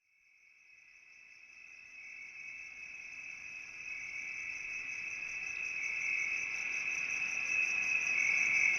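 Crickets chirring in a steady, high, continuous trill that fades in from silence and grows gradually louder.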